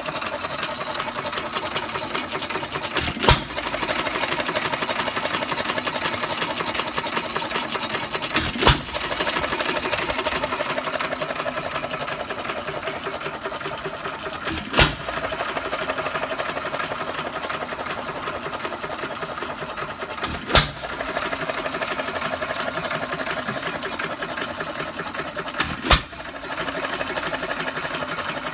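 1 1/2 hp Hercules single-cylinder hit-and-miss engine running on its governor: a steady fast mechanical clatter as it coasts, with a sharp bang each time it fires, five firing strokes spaced about five and a half seconds apart.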